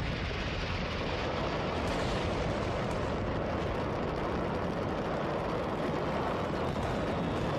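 Burning fireworks stockpile going off in a dense, steady mass of rapid crackling explosions, with no single bang standing out.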